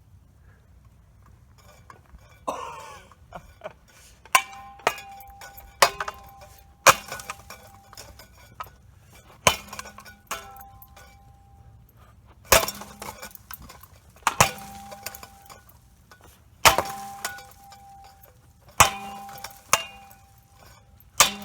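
A Hampton Bay Littleton ceiling fan taking about a dozen sharp clanking hits, one every second or two, starting a couple of seconds in. Many of the hits leave a brief metallic ring.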